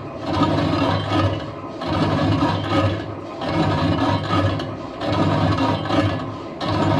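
Metal lathe turning a steel truck wheel rim: a steady motor hum under a scraping cut that swells and fades in a repeating cycle about every one and a half seconds.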